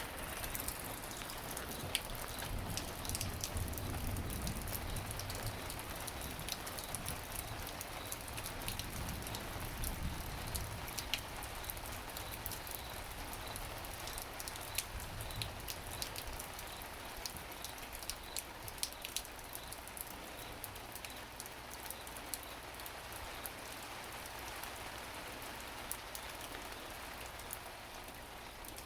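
Thunderstorm rain falling steadily, with many individual drops ticking on hard surfaces over the hiss. A low rumble runs under the rain for the first ten seconds or so, then fades.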